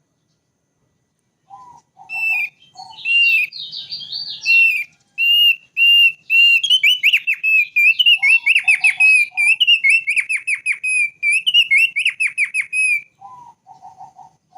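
Thick-billed white-eye singing: after a second and a half of quiet, a long run of short, quick whistled notes, with a few lower short notes at the start, in the middle and near the end.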